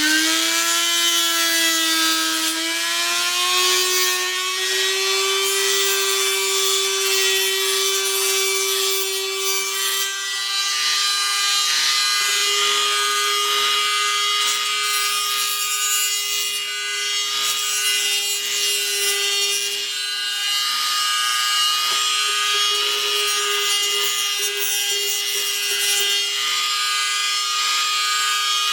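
Dremel rotary tool running continuously with a high whine, grinding down a broken plastic nub on a model locomotive's truck. Its pitch rises as it spins up over the first few seconds, then holds steady under the scratchy grinding of the bit on plastic.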